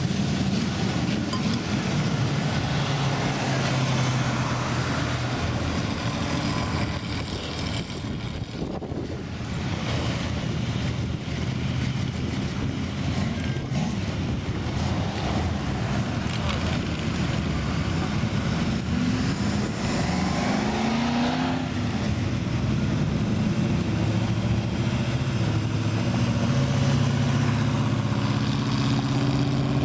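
Car engines running as cars roll out in line from a car show, with a steady low engine hum throughout and one engine note rising about twenty seconds in as a car pulls away.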